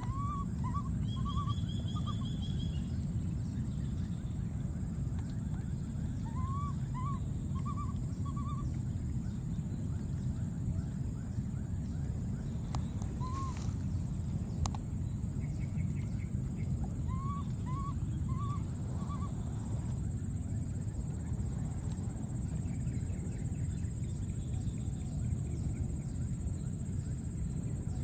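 Outdoor ambience with a steady low rumble and a steady high whine, over which a bird calls several times in runs of three or four short rising-and-falling notes.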